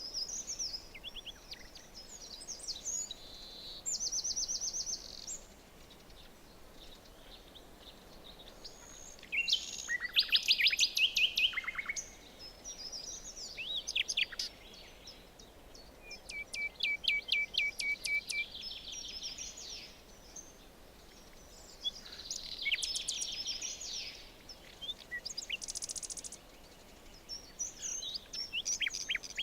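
Several songbirds singing in a forest, one after another, in short high phrases and rapid trills over a faint steady hiss; the loudest phrase comes about ten seconds in.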